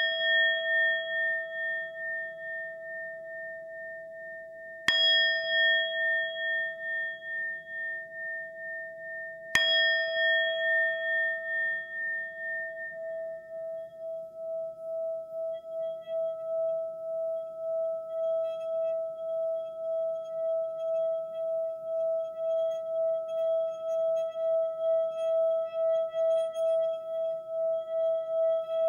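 Bell-like ringing tone in calm relaxation music. It is struck three times, about five seconds apart, and each strike rings on with a slow wavering beat. From about twelve seconds in it becomes one sustained, evenly pulsing tone.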